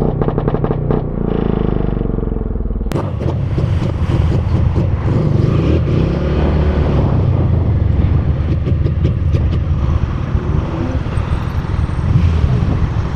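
Motor vehicle engine running with road and wind rumble. The sound changes abruptly about three seconds in, from a duller engine tone to a fuller, noisier rumble with scattered clicks and knocks.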